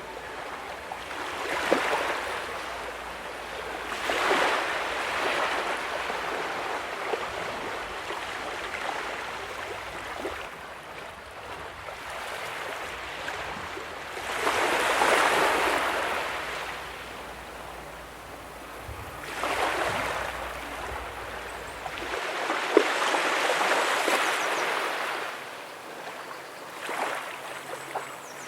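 Small ocean waves breaking and washing up the sand, one after another every few seconds, over a steady wash of surf. The largest surges come about halfway through and again near the end.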